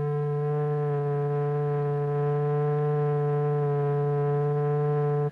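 Steady electronic tone at one low pitch with a stack of overtones, swelling slightly and then cutting off suddenly at the end. It is the note driving the vibrating surface in a cymatics experiment.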